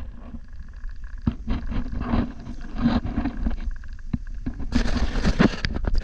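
Kayak on the water: irregular splashes and knocks and scrapes against the hull, with a louder splashing spell near the end, over a low wind rumble on the microphone.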